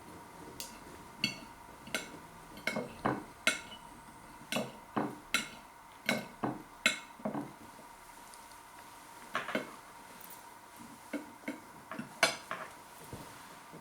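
Knife and fork clinking and scraping on a plate: irregular sharp clinks in quick succession, a pause in the middle, then several more.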